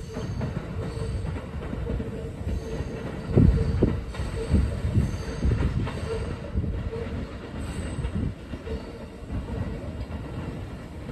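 Kintetsu electric train pulling away from the station and receding, its wheels clattering over the track and points, with a few heavy low thumps, the loudest about three and a half seconds in.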